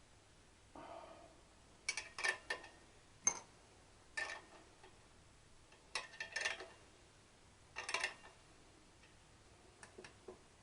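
Sharp metallic clicks and clinks of hand tools on a nut, in small clusters every second or two, with a soft scrape near the start, as the nut is tightened up.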